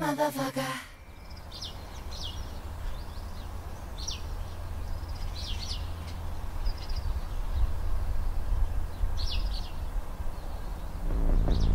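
Music cuts off about a second in, leaving birds chirping: short high calls, repeated every second or so, over a low steady hum. Music starts again near the end.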